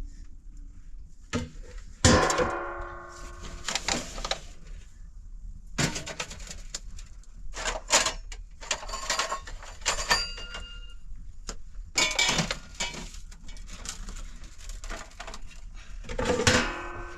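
Intermittent knocks and clinks, several with a brief ringing tone that dies away, the loudest about two seconds in.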